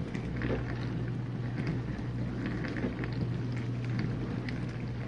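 Whirlpool dishwasher running its rinse: a steady low motor hum under a hiss of water spraying inside the tub, with many small scattered ticks.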